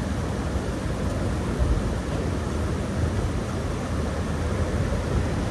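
Steady rushing of river water pouring through the dam and fish ladder, an even noise with a strong low rumble.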